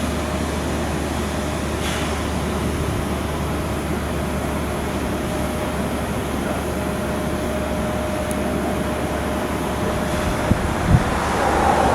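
Steady machinery noise in a shipyard, with a faint steady tone in the middle and two sharp knocks near the end.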